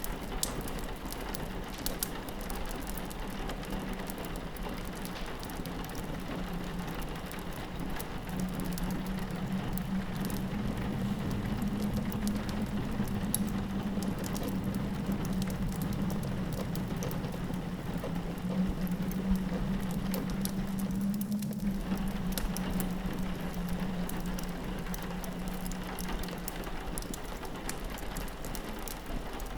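Layered ambience of rain pattering on a window pane and a fireplace crackling, with sharp little snaps throughout. A low steady drone of howling wind swells in after about eight seconds and fades out near the end.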